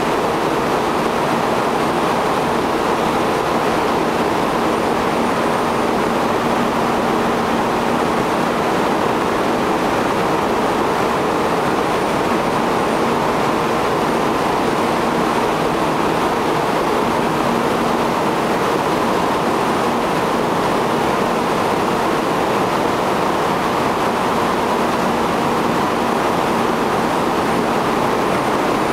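Steady, even roar of a Taiwan High Speed Rail 700T train standing at an underground platform, its equipment running, with a faint low hum underneath and the sound echoing in the enclosed station.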